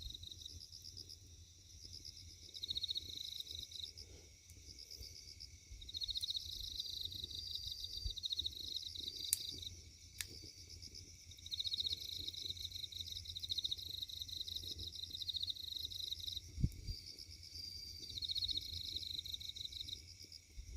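Insects chirping in fast pulsing trills that come in bouts of a few seconds, over a low rumble, with a few sharp pops from the burning wood fire around the middle and near the end.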